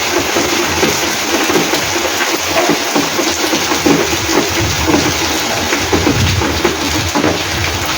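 Heavy rain pouring steadily, a dense even hiss of falling water, with wind blowing.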